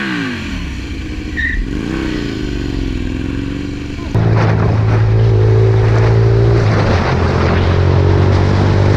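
Motorcycle engine rising and falling in pitch as the rider works the throttle. About four seconds in, this cuts abruptly to a louder, steady engine drone.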